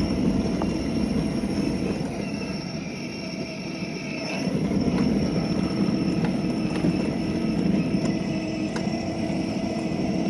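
Mini bike engine running steadily as it is ridden along, easing off a little about three seconds in and picking back up.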